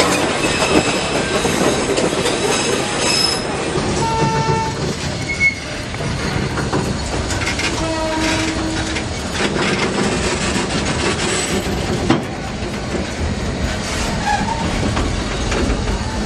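A train running along the track with a steady rumble and clatter, and a few short pitched tones, about four and eight seconds in.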